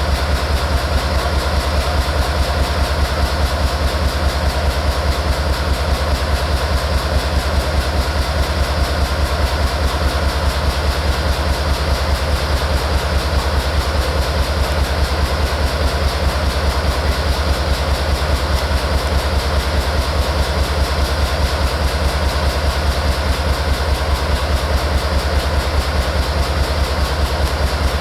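Florida East Coast Railway train running with a steady, unchanging low rumble.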